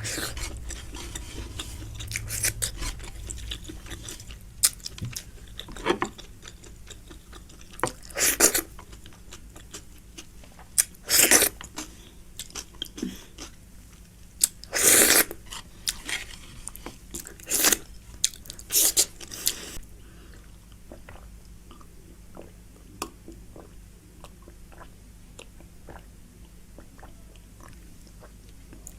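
A person eating close to the microphone: wet chewing with irregular louder smacks and crunches, thinning out to fainter small mouth clicks in the last third.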